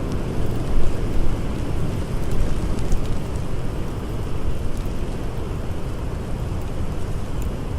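Blizzard wind blowing steadily, a deep even rumble, with a few faint crackles from a campfire.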